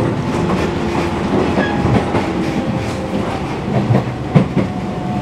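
Running noise inside a JR Kyushu 415 series 500 subseries electric multiple unit: a steady rumble with the clickety-clack of wheels over rail joints and repeated knocks, the sharpest one just over four seconds in.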